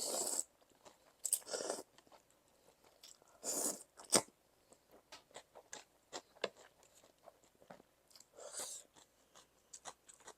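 A person chewing a mouthful of Thai cucumber salad at close range: several loud crisp crunches, with wet clicking chews between them.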